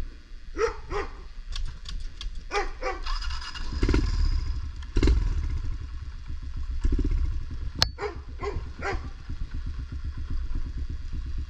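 A pit bike engine idling as a steady low rumble, with a dog barking in short pairs over it.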